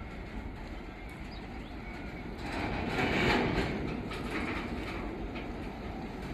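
Freight train rolling past, a steady rumble and rattle with scattered wheel clicks, swelling louder about three seconds in.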